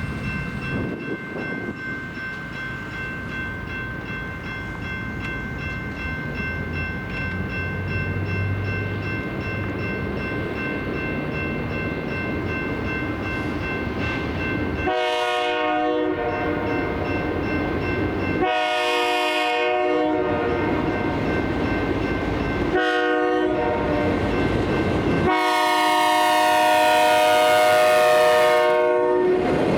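Freight train approaching a road crossing and sounding its multi-note air horn in the crossing pattern: two long blasts, a short one, then a final longer one, over the growing rumble of the train. A steady high ringing runs underneath throughout.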